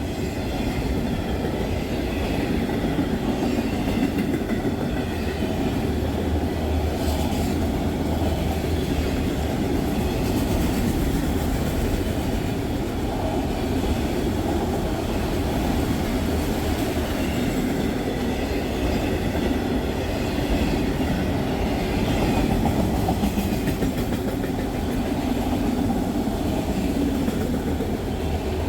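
BNSF freight train of auto-rack cars rolling past, a steady, continuous rumble of wheels on the rails.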